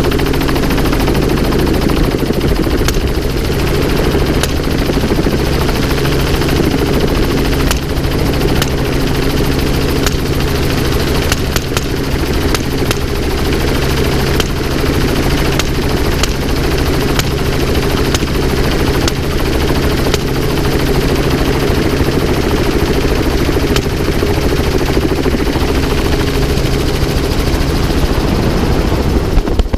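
Helicopter turbine and rotor running steadily and loudly, with many sharp cracks scattered irregularly through it: rifle shots fired from the aircraft.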